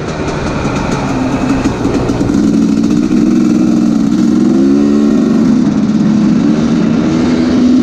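2017 Husqvarna TE 250's two-stroke engine running as the bike is ridden, getting louder about two seconds in, with its pitch dipping and climbing back about halfway through.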